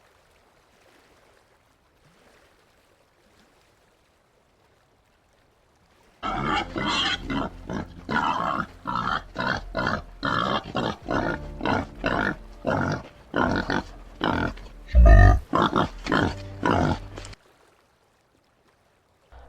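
White-lipped peccary grunting in a fast string of short, harsh calls, about two a second, which begin after several seconds of near quiet and stop abruptly. A single loud, deep thump comes near the end of the calls.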